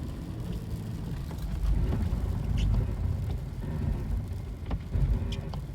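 Truck driving slowly on an icy lot and braking hard, the brakes locking up right away so the tyres slide on the ice. A low rumble that swells twice, with a few scattered clicks.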